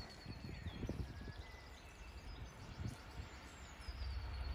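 Small birds singing, short whistled chirps and falling trills, over low rumbling gusts. About four seconds in, the low rumble of the approaching MPV track-cleaning train grows louder.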